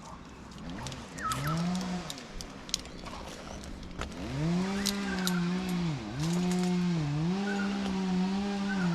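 Two-stroke chainsaw engine running and being revved: a short rise and fall in speed about a second in, then from about four seconds in held high with several sharp dips in engine speed.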